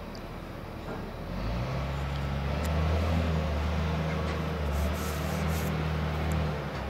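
Low, steady engine drone from the ballast train, swelling about a second and a half in, holding, then easing off near the end.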